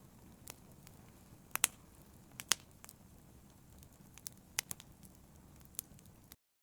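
Fire crackling: a low steady rumble broken by irregular sharp pops and snaps. It cuts off abruptly to silence near the end.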